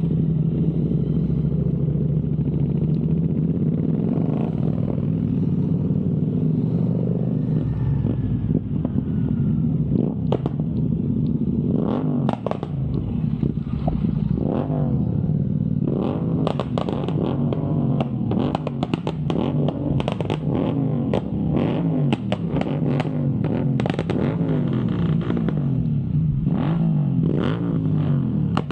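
Motorcycle engine running steadily while riding. From about halfway through, frequent short clattering knocks sound over it.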